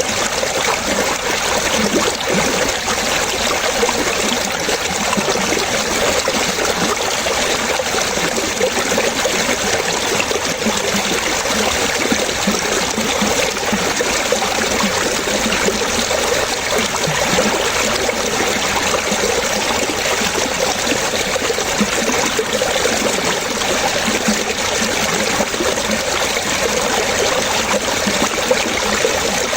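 Flowing water trickling and splashing steadily, like a small stream, with no pauses or changes.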